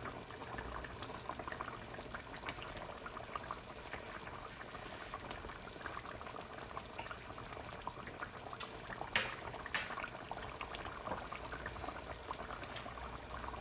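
Coconut curry bubbling at a simmer in the pot, a faint steady crackle of small pops, with a couple of light clicks about two-thirds of the way through.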